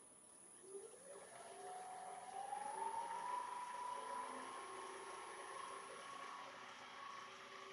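Wood lathe motor spinning up, its whine rising in pitch over about two seconds and then holding steady at running speed.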